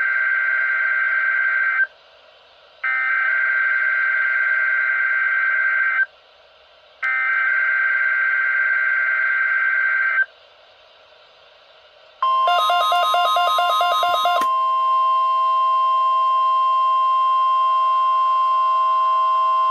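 NOAA Weather Radio weekly test signal: three digital SAME header bursts, each about three seconds with short gaps between them. About twelve seconds in comes the steady 1050 Hz warning alarm tone, with a warbling sound over its first two seconds.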